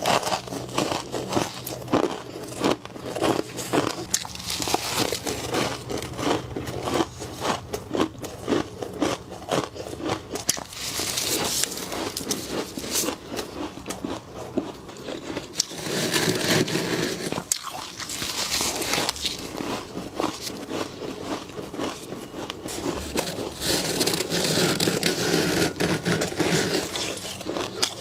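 Close-up crunching of frost being bitten and chewed: a rapid run of crisp crunches, thickening into two denser stretches of chewing after the middle.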